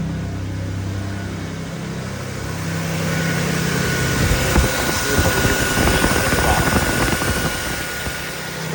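2000 Toyota Tacoma engine idling with the air conditioning switched on. From about three seconds in, a steady high whine and a fluttering rush rise over the idle, busiest in the latter half.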